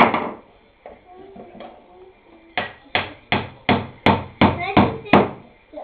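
Hammer driving a nail into the wood of a birdhouse: one loud strike at the start, then after a pause of about two seconds a steady run of strikes, about three a second.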